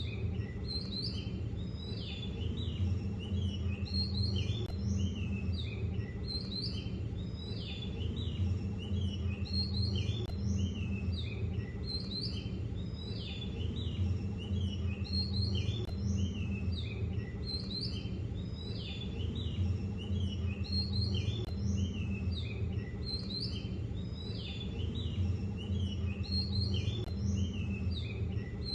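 Birds chirping and singing continuously, with short phrases repeating about every two seconds, over a steady low hum.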